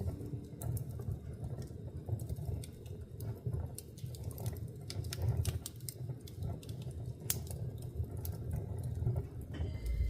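Wood fire burning in a fireplace: irregular crackles and sharp pops over a low rumble of the flames. Just before the end a steady low hum with a few held tones comes in.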